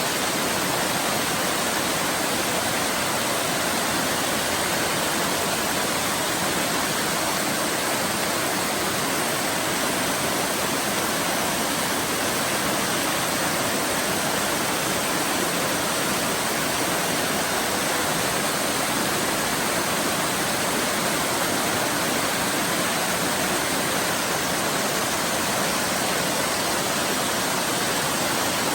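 Waterfall pouring in a steady, unbroken rush.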